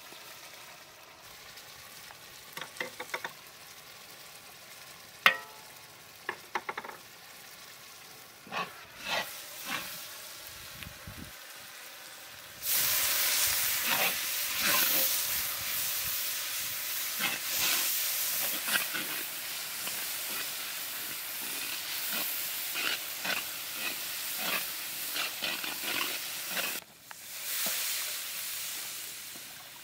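Onions and ground spices frying in oil in a large metal karahi, stirred with a metal spatula that taps and scrapes on the pan. At first the frying is soft, with a few light taps. About twelve seconds in the sizzling suddenly turns loud and hissing and carries on under the scraping of the spatula. Near the end, water poured into the hot pan hisses up again.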